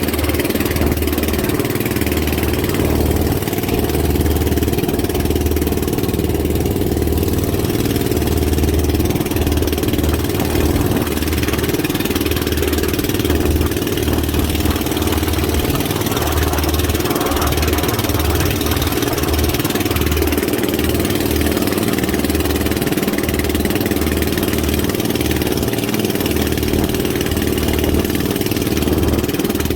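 A boat engine running steadily and loudly, with a low throbbing hum and an even hiss over it.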